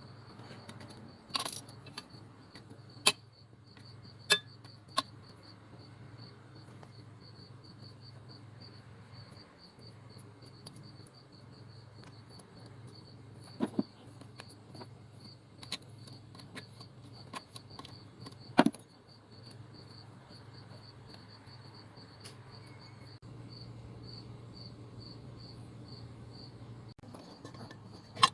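Scattered sharp metallic clinks and clicks of hand tools and parts, about ten in all, the loudest a little past halfway. Under them, a steady high-pitched, fast-pulsing insect chirp.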